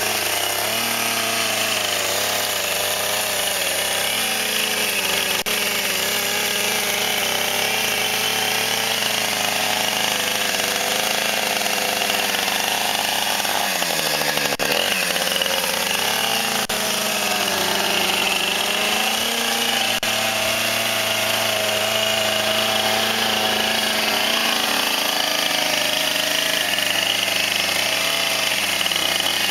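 Two-stroke chainsaw running and cutting a notch into a log, its engine pitch wavering with the load. The pitch dips about halfway through and then picks back up.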